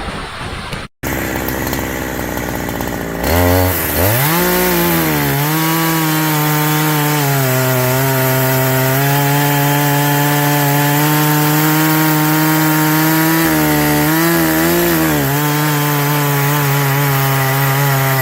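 Chainsaw revving up sharply a few seconds in, then running steadily at full throttle as it cuts into a tree trunk. Its pitch dips briefly a couple of times under load.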